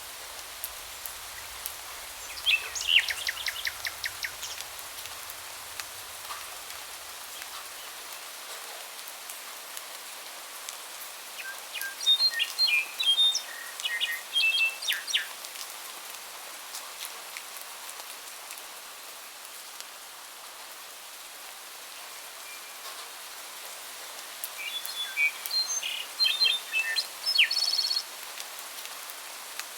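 Songbirds singing in short bursts over a steady hiss of rain: a quick run of repeated notes about three seconds in, a cluster of chirps around the middle, and another burst of song near the end.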